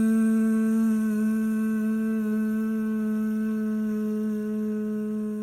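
A woman's voice humming one long, steady buzz like a bee on a single pitch, held on one breath and slowly fading toward the end.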